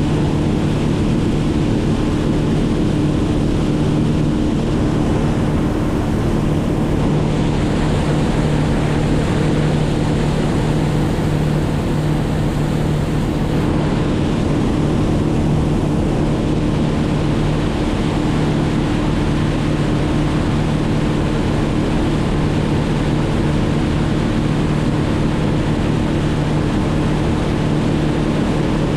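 A motor running steadily at one constant speed, a drone with a broad rushing noise over it.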